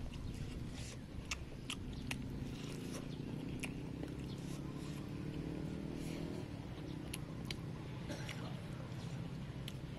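Chewing and biting into a crispy breaded fried chicken drumstick, with scattered sharp crunching clicks, over a low steady drone.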